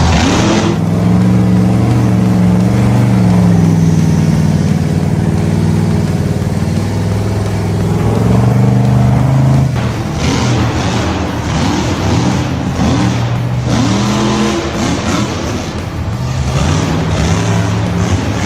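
Engine running with revs that rise and fall, then quick repeated revs in the second half.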